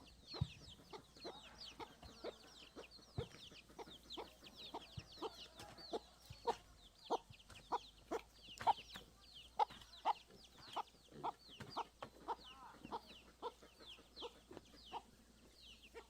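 Chickens: short clucks, about two a second, under a steady stream of rapid high falling peeps, like chicks.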